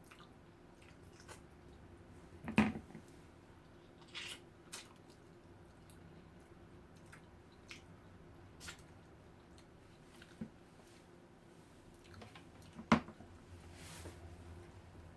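A person chewing and eating lechon paksiw close to the microphone: wet, squishy mouth sounds with scattered small clicks. There are two sharper knocks, one about two and a half seconds in and one near the end.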